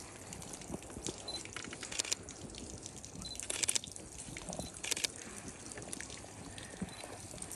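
Water trickling and splashing, with scattered sharp clicks.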